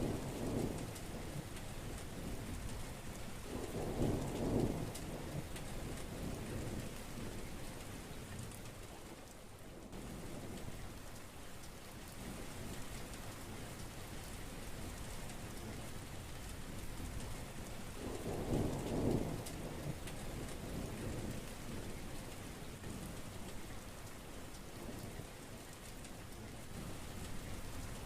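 Heavy rain falling steadily, with low rolls of thunder rumbling at the start, about four seconds in, and again past the middle.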